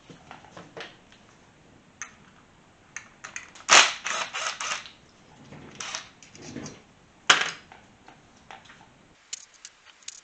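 Sharp metallic clicks and clatter of hand tools working on a Kawasaki KZ400 motorcycle engine as it is taken apart. The loudest knocks come about four and seven seconds in.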